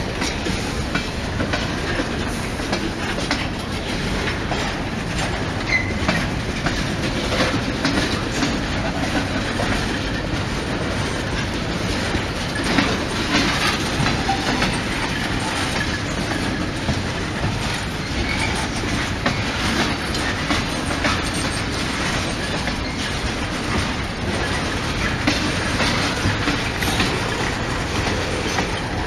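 A train rolling past at steady speed, its wheels clicking and clattering over the rail joints throughout.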